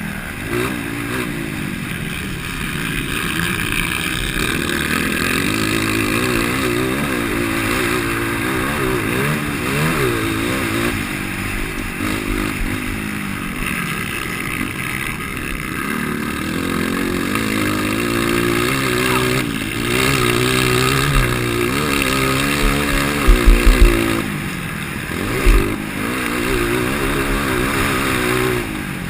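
Four-stroke 230 cc motocross bike engine, with an aftermarket header pipe and exhaust tip, revving up and down over and over as the throttle opens and closes. A few sharp thumps come near the end.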